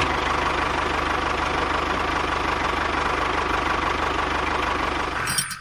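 A small engine running steadily at idle with a fast, even pulsing, then cutting off abruptly near the end.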